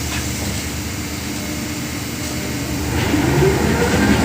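Drilling rig machinery running with a steady low engine drone, growing louder about three seconds in.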